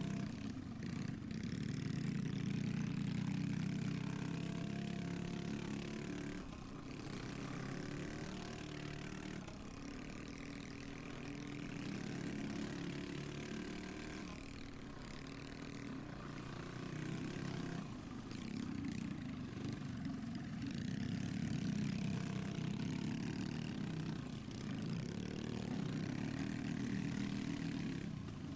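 Pit bike engine running hard, revving up and backing off again and again as the bike is ridden through a race lap.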